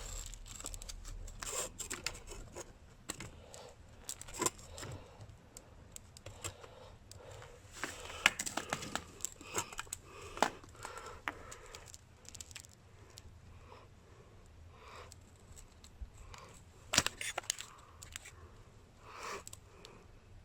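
Scattered clicks, scrapes and rustling, with a few sharper knocks. The two loudest come about eight and about seventeen seconds in.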